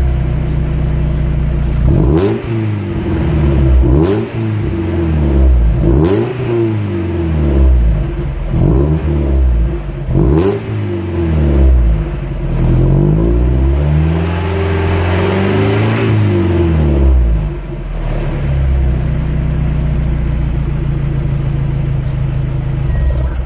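2002 Mazda Miata's 1.8-litre four-cylinder, catless and running a Goodwin Racing Roadster Sport 3 muffler with its baffle out, revved in a series of rises and falls, a few with sharp pops, then two longer revs before it settles to a steady idle for the last few seconds.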